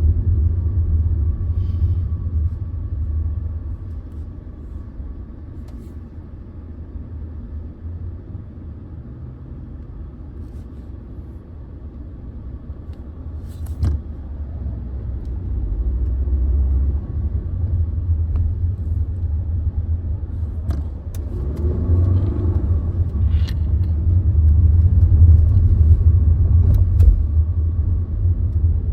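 Car engine running with a heavy low rumble that eases off for a few seconds, then builds again and is loudest near the end. A few sharp clicks sound over it.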